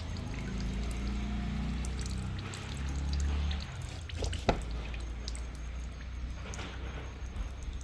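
Liquid dripping and pouring over a low steady hum. The hum stops a little under four seconds in, and there is one sharp click shortly after.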